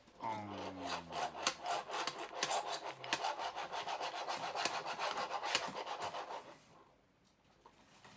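Spoon scraping rapidly against a dish, a dense run of quick scrapes and clicks that lasts about six seconds and then stops.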